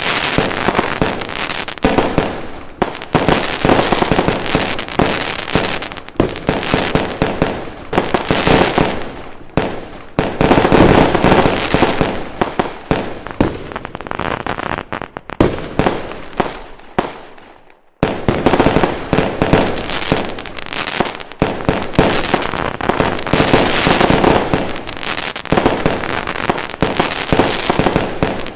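Fireworks going off in a dense, rapid run of bangs and crackling. About two-thirds of the way through the bangs fade away, then cut straight back in.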